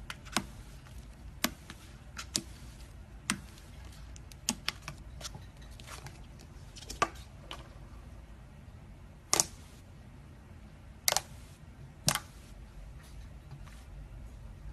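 About a dozen light clicks and taps at irregular intervals, the loudest near the middle and later part, over a low steady hum.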